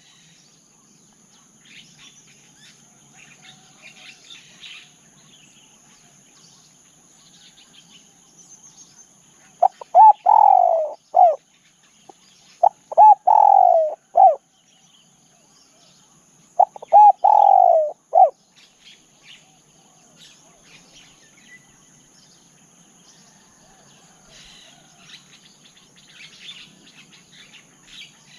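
Spotted dove cooing three times, each a short phrase of clipped notes around one longer falling coo. Faint chirps of small birds and a steady high insect drone sound between the calls.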